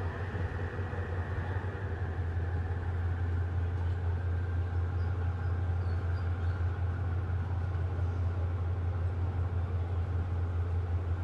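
Diesel locomotive engine running with a steady low drone, a little louder about two seconds in.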